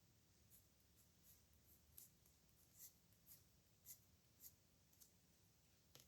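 Pen nib scratching on paper in short, faint strokes, about two a second, as characters are hand-lettered.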